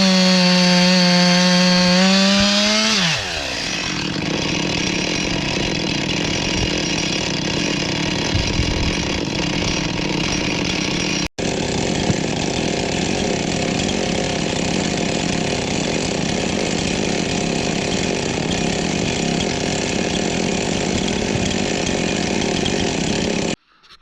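Two-stroke chainsaw held at full throttle with a high steady whine, then about three seconds in dropping to a lower, rougher running as the chain bites into firewood. It runs on until it cuts off abruptly near the end.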